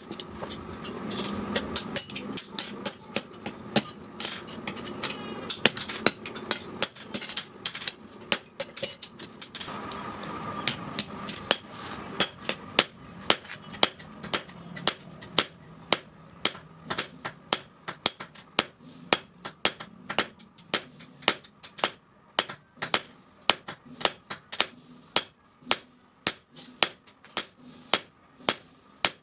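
Blacksmith's hand hammer striking steel on an anvil in a long, regular run of about two blows a second, forging the steel of a chain sprocket. A steady rushing noise sits under the blows for the first ten seconds or so, then drops away.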